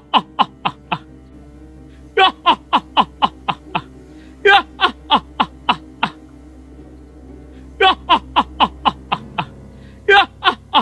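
A horror-soundtrack ghostly laugh effect over a low steady drone. Groups of six or seven short falling 'ha' cries, each fainter than the last, repeat every couple of seconds, four times.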